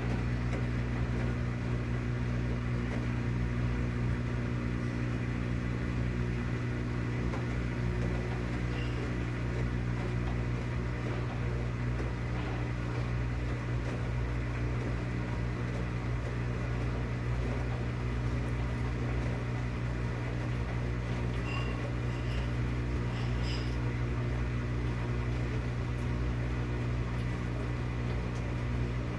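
Maytag washing machine running with a steady low motor hum.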